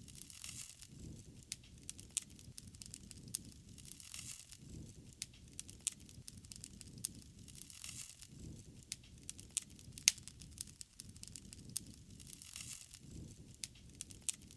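Wood fire crackling, with many sharp pops scattered irregularly and a low rushing sound that swells and fades every second or two.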